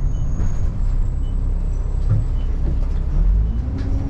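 Bus engine running, heard from inside the bus, a steady low drone whose pitch starts to rise near the end as the bus picks up speed.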